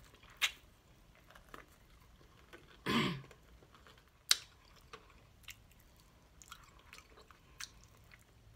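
Close-miked chewing of fried chicken, with wet lip smacks and a few sharp mouth clicks, and one louder mouth sound with a falling pitch about three seconds in.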